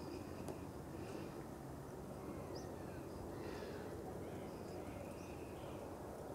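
Steady low outdoor background noise with faint, short bird calls a few times, and a couple of small sharp ticks near the start.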